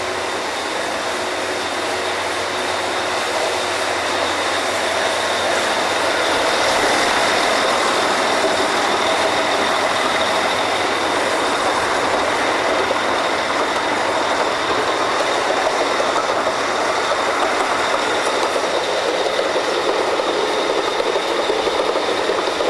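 Drilling rig machinery running: a loud, steady mechanical din with a thin high whine over it, growing a little louder several seconds in.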